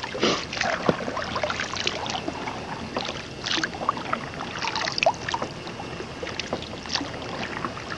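Small irregular splashes and water sloshing around a kayak being moved through shallow water.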